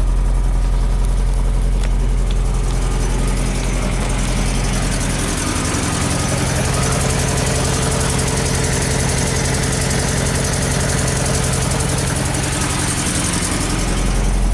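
Datsun 620 pickup's four-cylinder engine running, starting at idle; about five seconds in its speed rises and is held higher for several seconds, then drops back to idle near the end.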